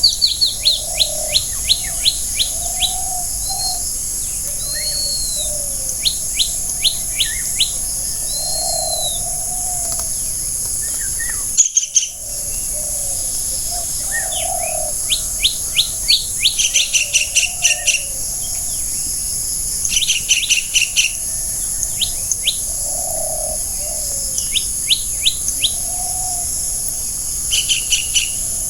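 Several songbirds chirping in a forest: runs of quick, high chirps and short trills, with softer lower calls among them, over a steady high hiss. The sound cuts out for a moment about twelve seconds in.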